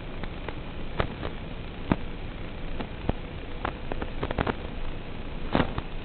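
Wind buffeting the microphone with a steady rush, broken by a dozen or so scattered sharp clicks and ticks, the loudest about a second in, just before two seconds, and near the end.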